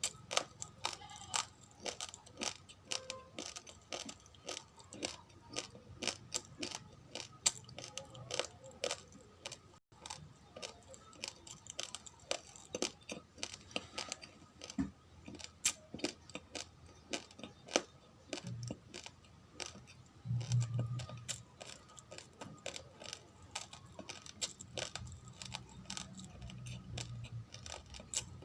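Raw, uncooked rice grains being chewed close to the microphone: a rapid, irregular run of sharp little cracks, several a second.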